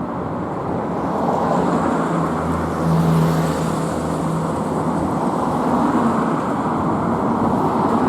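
A train running past with a steady noise of wheels on rails that swells about three seconds in, with a low hum for a few seconds.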